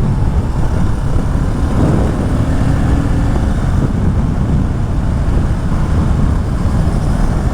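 Kawasaki Ninja 650's parallel-twin engine with a full Akrapovic exhaust pulling the bike along a bumpy, bendy road, under a loud, steady rush of wind noise on the microphone.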